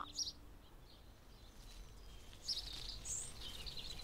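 Quiet outdoor background with a few brief, high-pitched bird chirps scattered through it, cartoon birdsong ambience.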